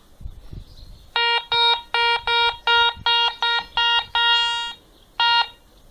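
Garrett Ace 200i metal detector in jewellery mode beeping about ten times at one steady pitch, short beeps with one held longer, as its coil passes over 20p coins. It gives no tone over the iron screws, which are discriminated out.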